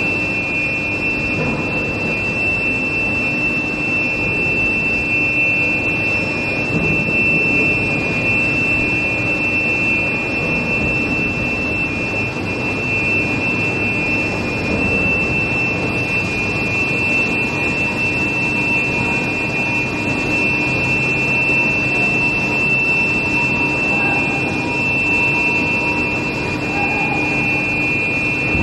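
Steel plate induction heating line running: a steady industrial roar under a constant high-pitched whine.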